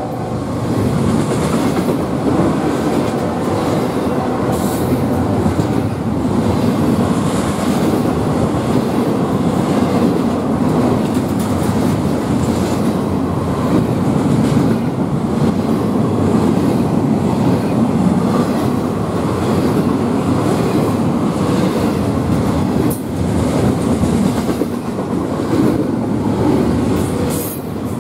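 Double-stack intermodal freight train rolling past: a steady rumble of well-car wheels on the rails, with a few sharp clicks near the end.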